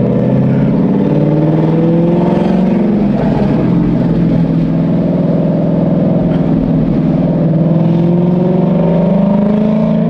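2013 Mustang GT's 5.0 L Coyote V8 running with the exhaust dumped straight out after the X-pipe, no mufflers, heard from inside the cabin while driving: a loud, steady drone. Its pitch shifts a little about a second in and rises near the end.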